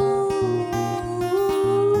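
Acoustic guitar playing the closing bars of a song, plucked low notes under a long held wordless vocal note.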